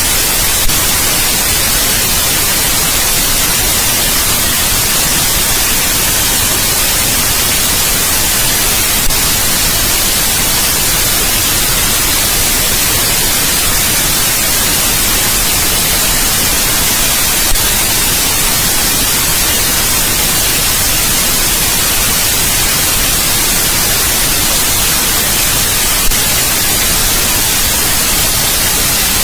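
Steady white noise: an even, loud hiss across the whole range, brightest in the highs. A faint click breaks it four times, about every eight and a half seconds.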